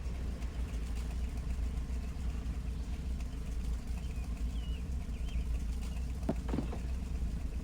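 Car engine idling with a steady low rumble, faint bird chirps above it, and two short knocks near the end.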